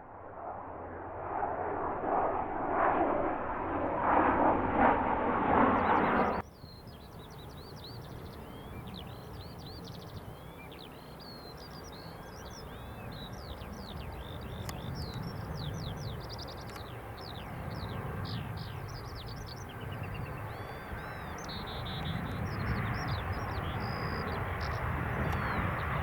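Birds chirping over the low rumble of an approaching jet airliner, a KLM Boeing 737-800 with CFM56 turbofans, which grows slowly louder toward the end. Before that, a louder muffled rushing noise cuts off abruptly about six seconds in.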